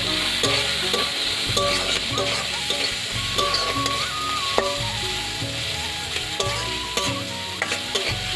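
Coconut, onion and green chilli sizzling steadily in hot oil in a metal kadai while a metal spatula stirs and scrapes the pan in frequent short strokes.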